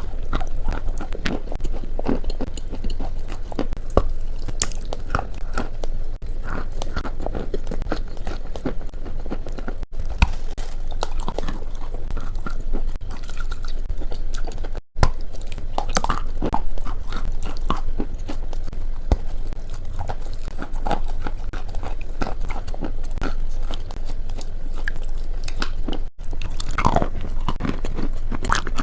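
Close-miked ASMR eating: a person biting and chewing crunchy food, with a steady stream of crackling crunches and a low background hum, and a few brief breaks where the recording cuts.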